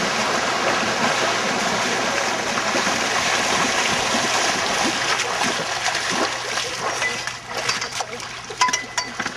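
Water rushing and splashing as a steady wash of noise, dropping away after about six and a half seconds to quieter splashing with a few sharp knocks.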